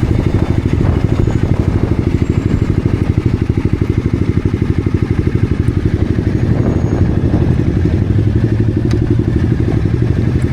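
Honda CBR300R's single-cylinder engine running steadily, with a rapid, even pulse and no marked rise or fall in pitch.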